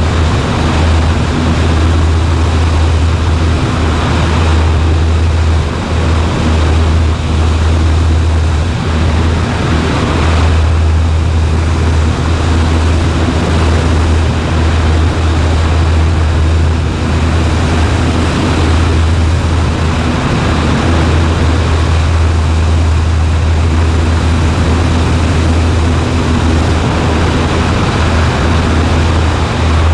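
Cessna 140A's four-cylinder engine and propeller droning steadily in flight, a constant low hum with wind rush over it.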